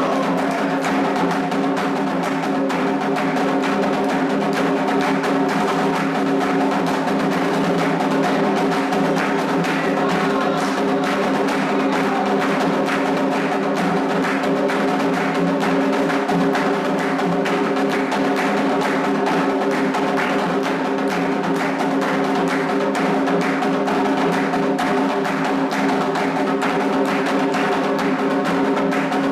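Candomblé ritual drumming: atabaque hand drums playing a fast, dense, unbroken rhythm over steady held tones.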